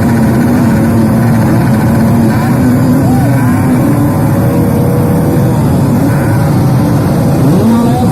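Several motocross bike engines running together, their pitches rising and falling as they rev and change speed, over a continuous loud rumble.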